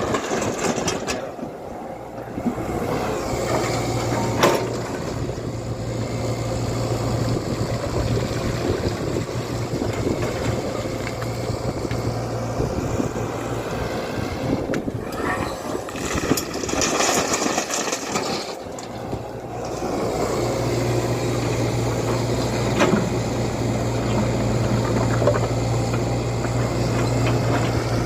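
Tata Hitachi EX120 excavator's diesel engine running steadily while working, its note easing off briefly twice.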